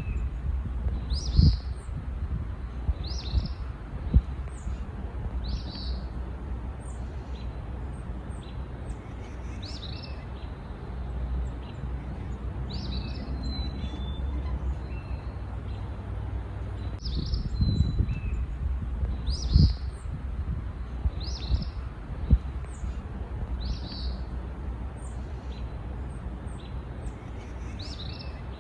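Wild songbirds calling, with one bird repeating a short, high chirp about every one to two seconds and fainter calls between. A steady low rumble runs underneath, broken by a few short low knocks.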